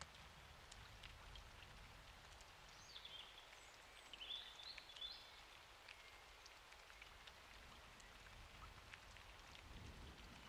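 Faint, steady rain with scattered single drops ticking, and a few short high chirps about three to five seconds in.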